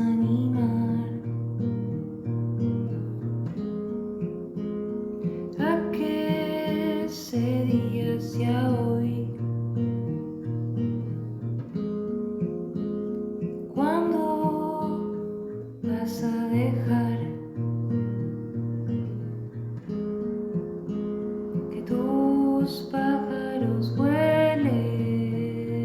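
Acoustic guitar plucked and strummed, playing a song intro in triple time.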